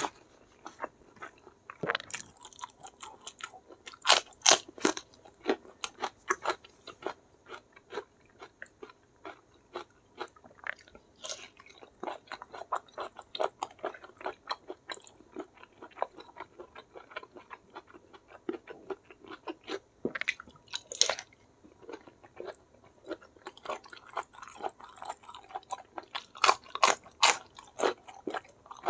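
A person chewing and crunching food with the mouth close to the microphone, including bites into raw vegetables and mouthfuls of rice. The crunches come at uneven intervals, with louder bites about 4, 11, 21 and 27 seconds in.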